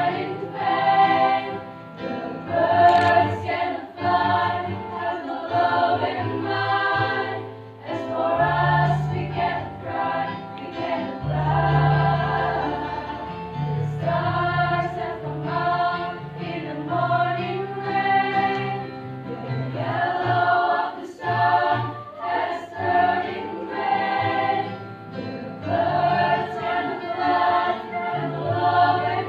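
Choir singing a song in several voice parts, with held low notes under the melody.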